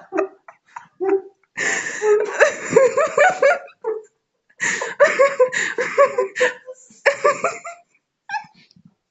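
Hearty laughter in two long bouts with a short break between, and a few short vocal sounds around them.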